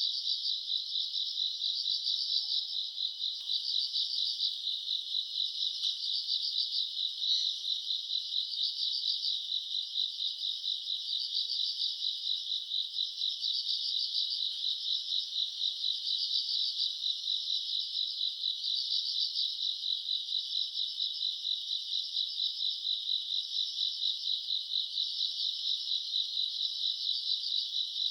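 Night chorus of grass insects in late summer: a dense, continuous high trilling of many insects at once, with rapid steady pulsing and a higher layer that swells and fades about every second.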